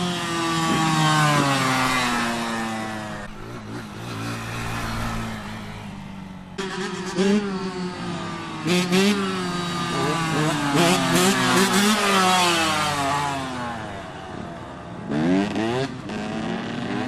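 Small motorcycle engines revving and accelerating hard, the pitch climbing and then dropping with each gear change. After a lull of a few seconds another run comes through, and a short sharp rev follows near the end.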